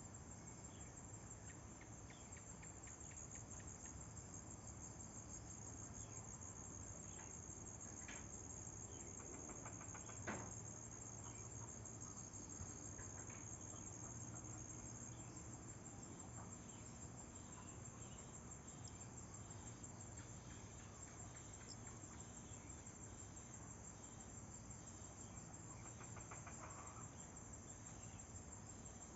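Faint chorus of insects, crickets by their sound, trilling steadily in a high, even band. A single short click stands out about ten seconds in.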